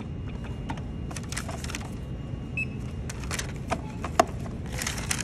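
Card payment at a store checkout: scattered clicks, keypad presses and rustling over a steady low hum, with a short faint beep about two and a half seconds in and a sharp click about four seconds in.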